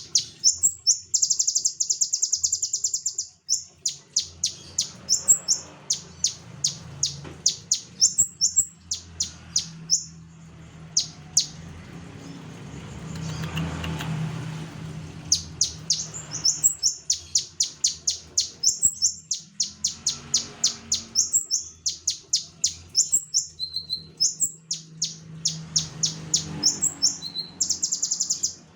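A konin songbird singing energetically in long runs of rapid, sharp, high chirps with short buzzing trills, breaking off for a few seconds in the middle while a low hum rises and fades in the background.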